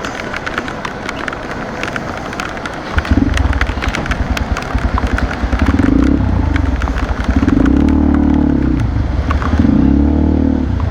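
Motorcycle engine pulling away: about three seconds in it gets much louder, then rises and falls in pitch as it accelerates. Underneath is a steady hiss of heavy rain on a wet road, with sharp taps of raindrops hitting the camera.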